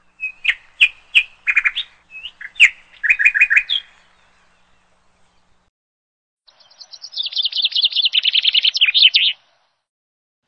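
Songbird singing: a string of sharp chirps over the first few seconds, then after a pause a fast trill of about three seconds that drops in pitch and ends with a flourish. No street noise behind it.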